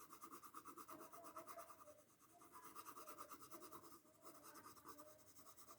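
Faint, quick back-and-forth colouring strokes on paper, about five or six a second, laying down a very light shade of colour. The strokes pause briefly about two seconds in and again about four seconds in.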